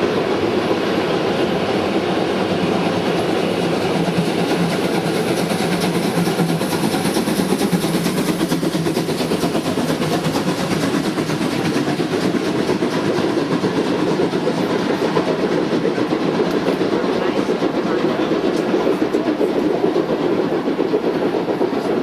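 Train running on the line, a steady loud rumble of wheels on rails that lasts the whole time.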